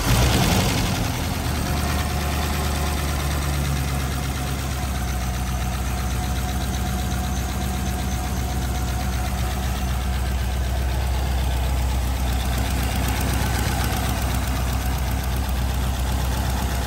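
C5 Corvette's LS-series V8 idling just after start-up, with a rapid, steady valvetrain ticking from the valve covers over the engine's run. The owner takes the ticking for valve lash from pushrods that are too short after a camshaft swap.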